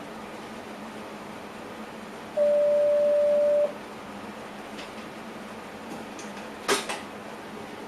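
A single steady electronic beep of about a second from the train cab's warning system, over the steady running noise of the train's cab. Near the end there is a sharp click with a short rattle.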